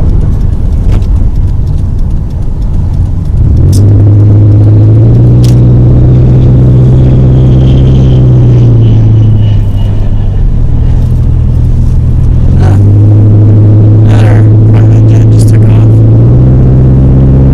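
Car engine and road rumble heard from inside the cabin while driving. The engine note steps up and down in pitch a few times as the car accelerates and eases off, with a few sharp clicks.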